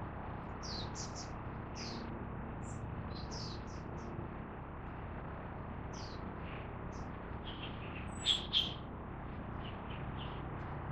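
Wild birds giving short, high chirps on and off, with two louder calls close together about eight seconds in, over a steady low rumble of background hum.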